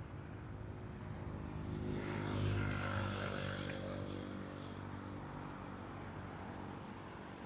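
A motor engine passing by, its hum growing louder about two to three seconds in and then slowly fading away.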